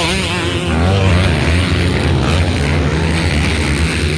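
Motocross bike engines running and revving, a loud steady drone with the pitch wavering up and down in the first second.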